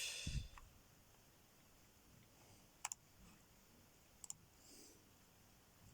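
Two quick double clicks, about a second and a half apart, in near silence.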